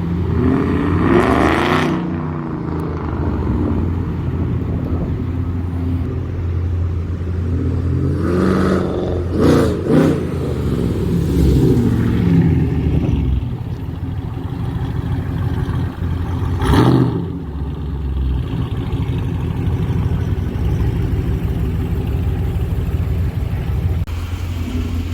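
Car engine running with a steady low hum, revved several times so the pitch rises and falls. A few brief sharp noises stand out over it, the loudest about seventeen seconds in.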